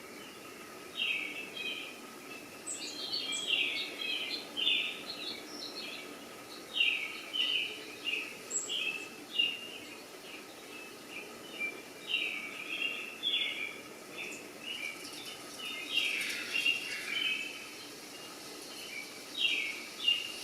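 Birds chirping: many short calls in quick, irregular runs, over a faint steady background hum.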